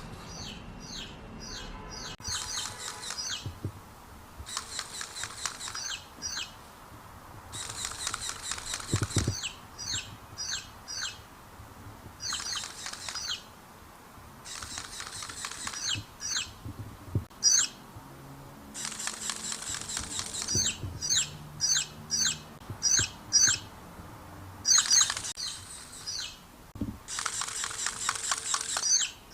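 Baby chicks peeping: rapid, high-pitched cheeps that come in bouts of a few seconds with short pauses between them.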